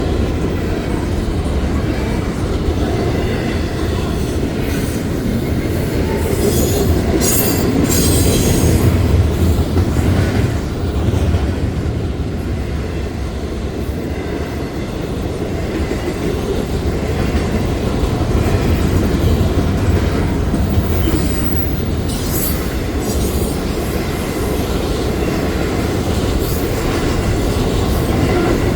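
Intermodal freight cars rolling past at track speed: a steady rumble with wheel-on-rail clatter, and a few brief high-pitched wheel squeals about a third of the way in and again later.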